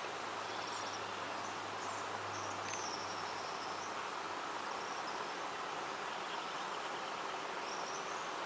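A steady chorus of chirring insects, with short high chirps now and then.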